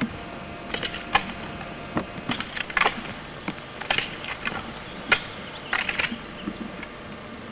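Off-road roller skis and ski poles working on a gravel path: crunchy clicks and scrapes come in clusters about once a second, the rhythm of strides and pole plants.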